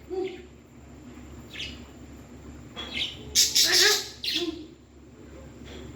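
Pet parrot calling: a few short squawks and chattering, pitched calls, the loudest cluster about three to four and a half seconds in.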